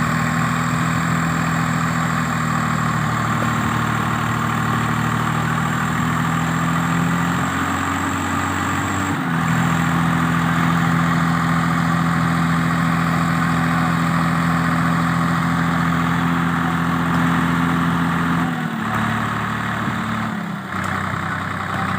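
Swaraj tractor's diesel engine running steadily near idle. Its speed rises a little about eight seconds in, falls back just after nine seconds, and drops again slightly near the end.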